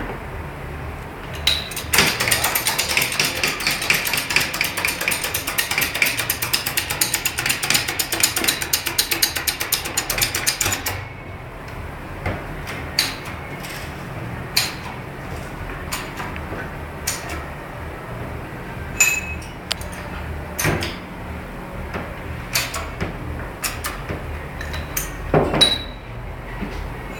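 Workshop tools being worked on metal: a long run of rapid clicking for several seconds, then scattered single clicks and knocks.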